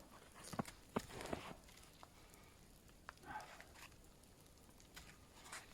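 Sticks and twigs being handled in a wet forest: a few sharp cracks and knocks within the first second and a half, then faint scattered ticks.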